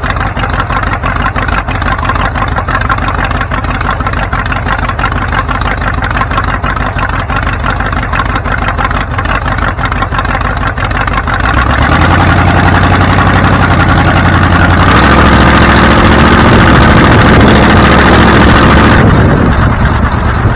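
A vehicle engine running, stepping up in pitch and loudness about twelve seconds in and again about fifteen seconds in, holding steady, then easing off near the end.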